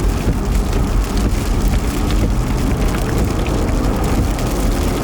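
Rain striking a storm-chasing vehicle as many small sharp ticks over a steady low rumble of engine and road noise.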